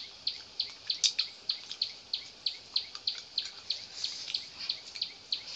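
A bird chirping over and over, one short high chirp about four times a second in an even rhythm. A brief click about a second in.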